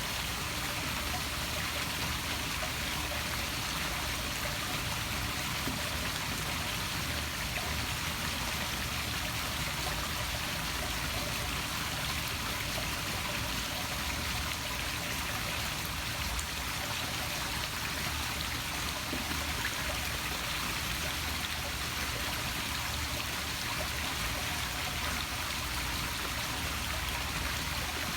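A small poolside waterfall splashing steadily into a pool, a constant even rush of falling water.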